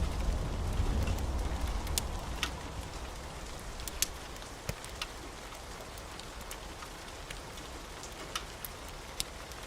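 Steady rain falling, an even hiss scattered with sharp little ticks. A low thunder rumble dies away over the first few seconds.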